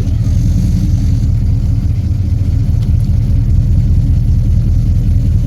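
Engine running steadily at low speed, a constant low rumble.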